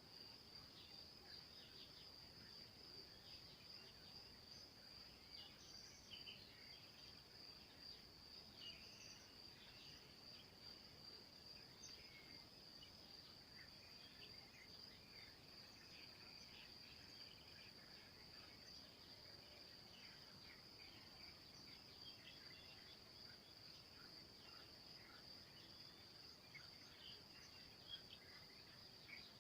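A faint, steady, high-pitched insect trill that runs without a break, with scattered short bird chirps over it.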